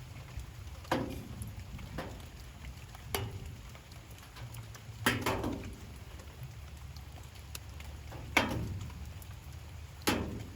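Light rain falling steadily, with heavy drips landing every one to three seconds as sharp, uneven taps, some ringing briefly.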